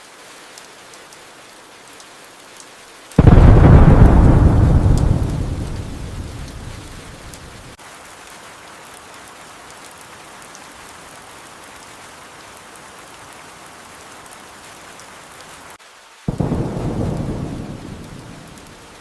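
Steady rain with two sudden claps of thunder: a loud one about three seconds in that rumbles away over several seconds, and a weaker one near the end that dies down more quickly.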